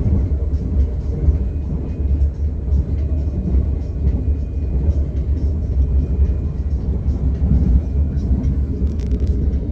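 KLIA Express airport train heard from inside while running along the track: a steady, deep rumble with rail and cabin noise above it, and a short rattle of clicks near the end.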